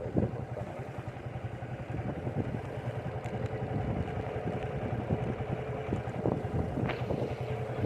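Scooter engine running steadily, with a few sharp clicks in the second half.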